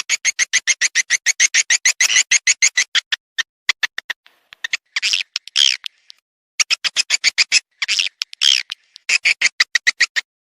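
Swiftlet lure-call recording: swiftlet twittering played back in rapid trains of short sharp chirps, about nine a second, broken by short pauses and a few longer drawn-out chirps about five and eight seconds in.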